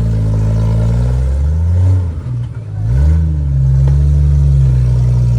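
Off-road vehicle's engine revving under load while crawling over rock: revs climb, fall off briefly about two seconds in, then rise again and hold high.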